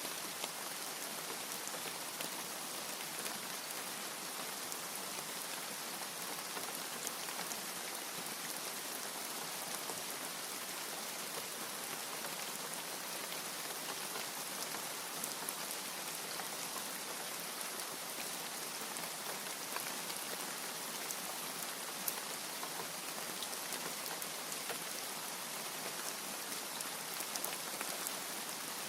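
Steady rain falling: an even hiss with scattered drop ticks throughout, no thunder.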